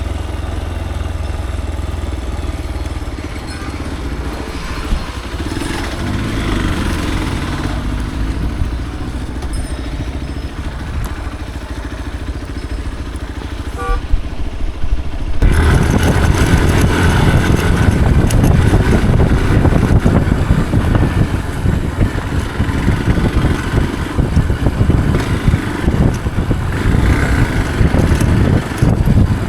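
Motorcycle engine running on an off-road ride. About halfway through the sound turns suddenly louder and rougher, with a heavier low rumble.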